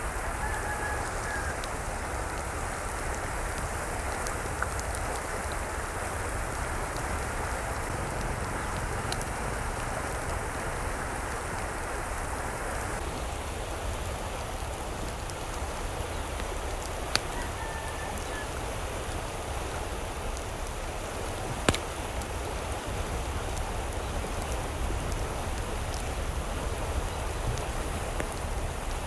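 Steady rush of water, with a few sharp ticks scattered through it. A brief faint call sounds near the start and again a little past halfway.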